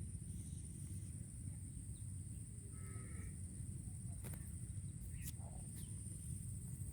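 Outdoor riverside ambience: a low rumble under a steady high-pitched drone, with a few faint clicks and a short faint call about three seconds in.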